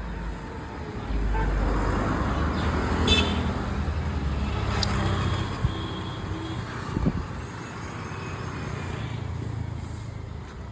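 Road traffic noise: a vehicle's low rumble swells about a second in and eases off after about six seconds, over a steady background of traffic.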